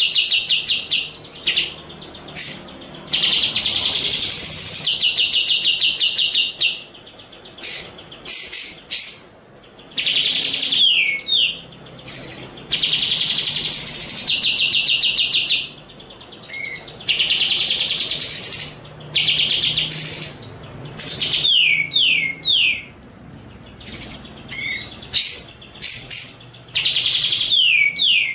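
A songbird sings repeated phrases: long, fast trills that rise in pitch at the end, alternating with quick downward-sweeping whistled notes, separated by short pauses. The same phrase pattern comes back roughly every nine to ten seconds.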